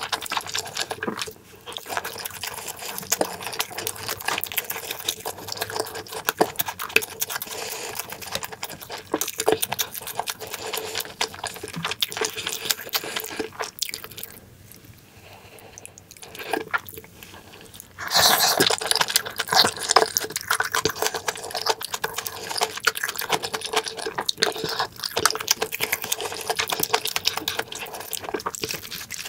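Close-miked wet chewing of a mouthful of kimchi stew and tofu: many small moist smacks and clicks of mouth and lips. It dips quieter for a few seconds just past the middle, then comes back louder.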